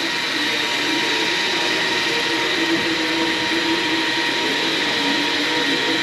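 Steady rushing hiss of a heating tool warming a part, with a faint wavering hum underneath.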